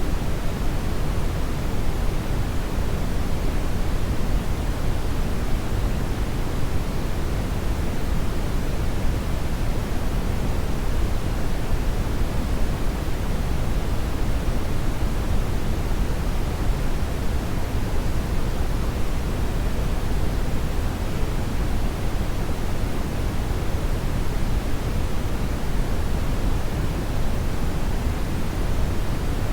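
Hair dryer running continuously: a steady, even rush of airflow noise, heaviest in the low end, with no change in pitch or level.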